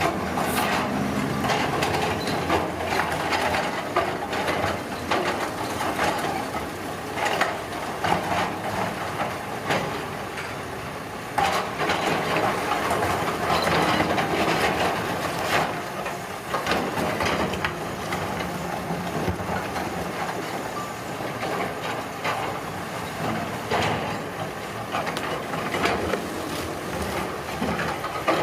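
Heavy road-construction machinery at work: an engine running under a continuous clatter of scraping and crushing, broken by many sharp knocks.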